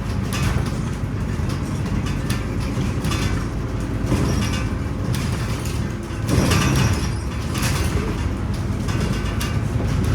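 Scania Omnicity city bus under way: its engine drones steadily over road noise, heard from inside the bus. About six seconds in there is a brief louder swell.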